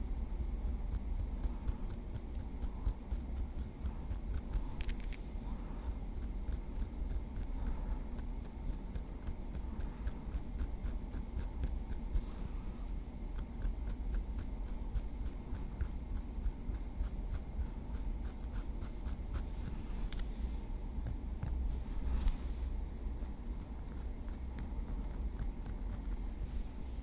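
A small wooden stick tapping and scratching lightly, making a continuous run of small, quick clicks.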